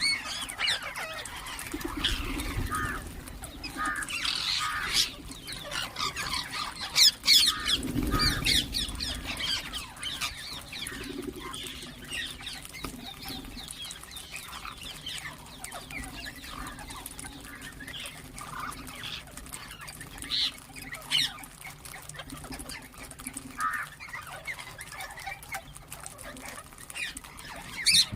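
Ringneck parakeets chirping and squawking: many short, high calls following one another, the loudest few about seven to eight seconds in.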